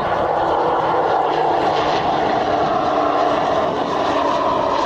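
Airliner engines, loud and close, as a plane passes on the runway: a steady roar with tones that slowly fall in pitch.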